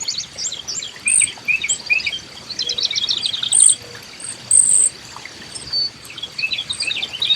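Several wild birds chirping and calling in quick short notes and brief high trills, over a steady high-pitched insect buzz.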